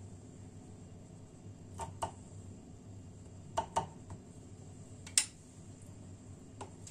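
Light taps and clicks of kitchenware being handled, mostly in quick pairs, the loudest a little after five seconds in, over a low steady room hum.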